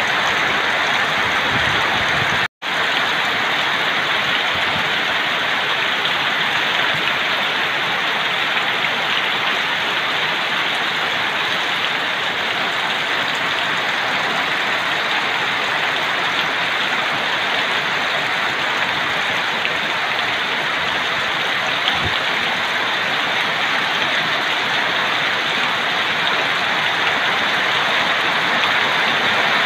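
Heavy rain pouring down as a dense, steady hiss. The sound cuts out for a split second about two and a half seconds in.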